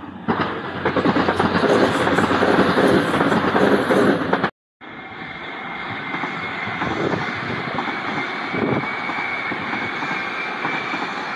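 A Northern passenger multiple-unit train passing on the tracks, with loud wheel-and-rail running noise. The sound breaks off for a moment a little under halfway through, then runs on steadier and a little quieter, with a faint high whine.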